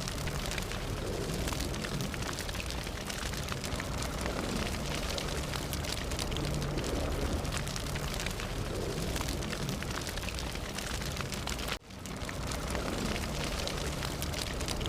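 Fire burning steadily: a low rumble of flames with dense, frequent crackles and pops. The sound cuts out for an instant about twelve seconds in, then resumes.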